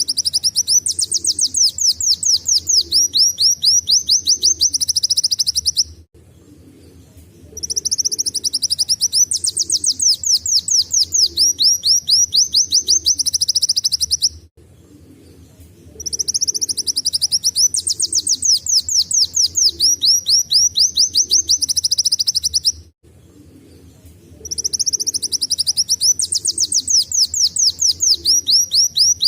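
A kolibri wulung sunbird singing a canary-like song: loud, high-pitched phrases of about six seconds made of rapid trills of quick down-sweeping notes, each followed by a short pause. The same phrase repeats four times.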